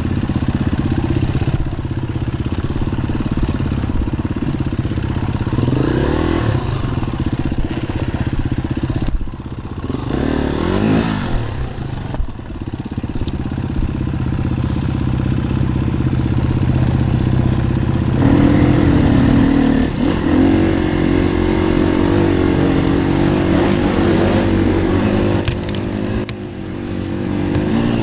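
Enduro dirt bike engine running under load on a trail ride, the revs rising and falling with the throttle: short climbs in pitch early on, then a steadier, higher-revving stretch from about two-thirds of the way through.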